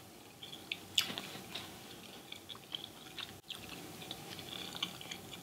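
Close-miked chewing of almond-flour-battered fried fish, with small wet mouth clicks and a sharper click about a second in.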